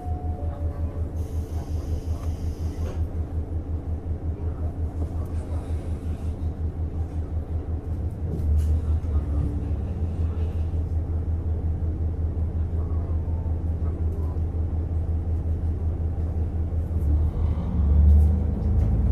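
Onboard running sound of a JR Hokkaido KiHa 150 diesel railcar: a steady low rumble with a fast, even pulse. It grows louder about eight seconds in and swells briefly near the end, with a short hiss about a second in.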